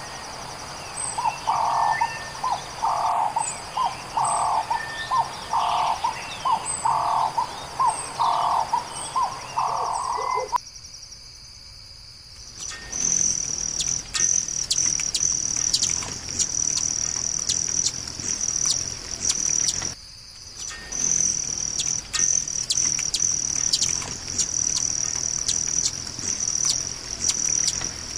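A bird repeats a short call about once a second over steady, high insect trilling. After a sudden cut, loud insect trilling carries on with scattered short bird chirps and clicks.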